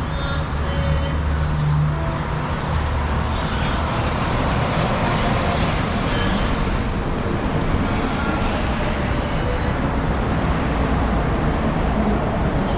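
Mexico City Metro NM-83A rubber-tyred train running, a steady, loud, even noise with a low hum in the first few seconds.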